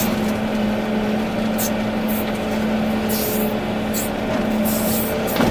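Volvo EC380D excavator's diesel engine running steadily under work, with a few short high hisses along the way.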